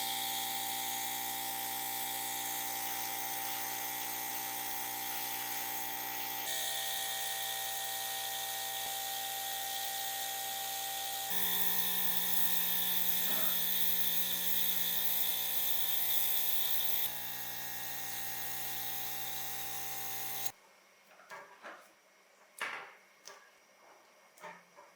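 Small high-speed electric power tool running steadily, its whine shifting in pitch and level a few times. It stops about 20 seconds in, leaving a few light clicks and taps of handling.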